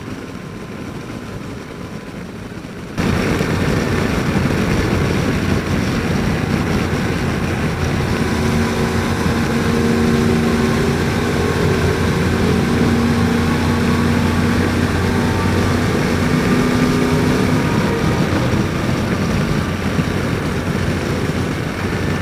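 Riding sound from a helmet microphone on a Yamaha FJR1300: a steady rush of wind with the engine humming underneath. The level jumps suddenly about three seconds in, and engine tones come through more plainly in the middle stretch.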